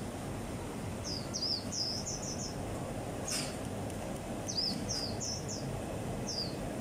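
Birds chirping: short, high, falling chirps that come in quick runs of three or four at a time, over a steady market hubbub. One sharp click about halfway through.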